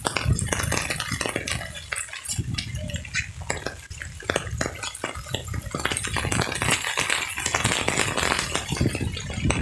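Rain falling, with many sharp taps and clicks of drops hitting nearby surfaces over a steady hiss.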